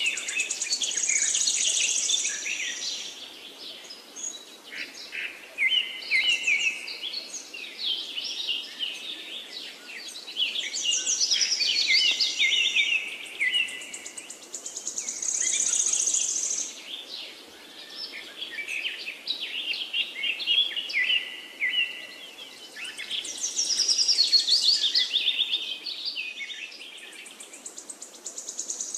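Birds singing and chirping: many overlapping high, quick calls that swell and fade in waves every few seconds, with a buzzy trill recurring among them.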